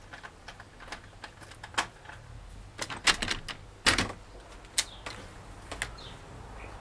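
A handful of sharp clicks and knocks, spaced about a second apart, the loudest about three and four seconds in: a door latch and handle being worked as a door is opened.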